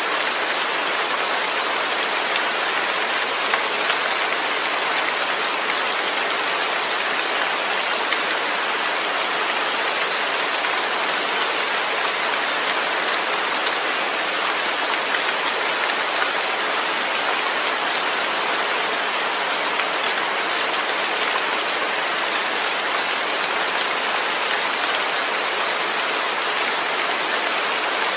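Steady rain falling, an even hiss that holds at one level throughout, with no thunder.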